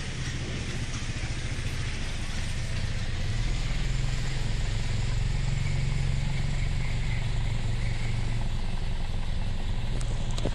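Toyota Yaris petrol engine idling steadily after a carbon-cleaning treatment and new iridium spark plugs.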